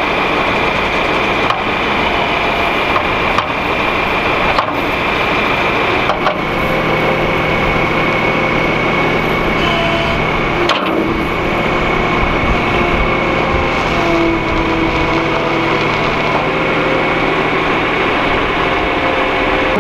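John Deere 4450 tractor's six-cylinder diesel running steadily while pulling a planter, a continuous drone with a steady high whine over it and occasional sharp knocks and rattles.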